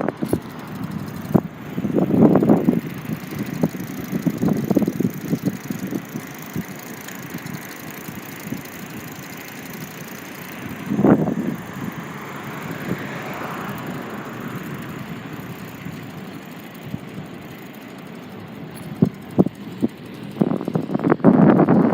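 Street and traffic noise heard while riding, with a car going by and a few sharp knocks and rattles.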